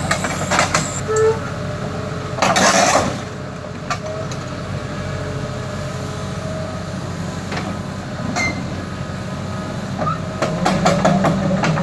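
Kobelco SK140 hydraulic excavator's diesel engine running steadily while metal clanks and squeaks, with a cluster of clanks near the end. A short loud hiss comes about two and a half seconds in.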